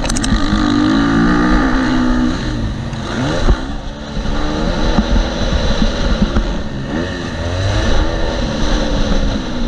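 2018 KTM SX-F 250's four-stroke single-cylinder engine revving hard on a motocross track, its pitch climbing and dropping repeatedly with the throttle and gear changes, with a brief throttle-off about three and a half seconds in.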